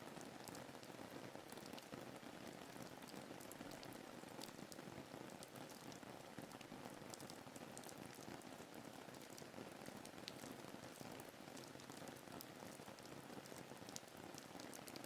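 Faint, steady rain ambience: an even hiss of rainfall with scattered small drop ticks.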